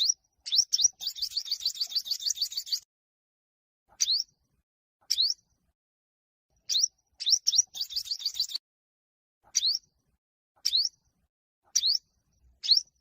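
Olive-backed (yellow-bellied) sunbird singing its competition song: sharp, high rising chirps given one at a time about a second apart, broken by a fast trill of about two seconds near the start and a shorter trill in the middle.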